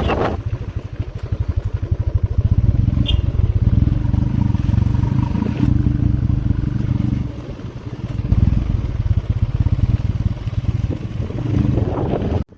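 A vehicle engine running steadily with a fast, even low pulse, easing off for about a second roughly seven seconds in and then picking up again; it cuts off abruptly near the end.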